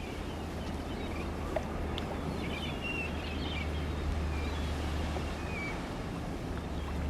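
A steady low rumble, with a few short bird chirps about two to four seconds in and a single small click about a second and a half in.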